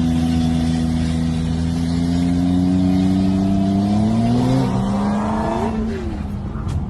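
Motorcycle engine pulling hard under acceleration, its pitch climbing slowly, then dropping suddenly about four and a half seconds in at a gear change. A short rise and fall follows before the engine sound fades near the end.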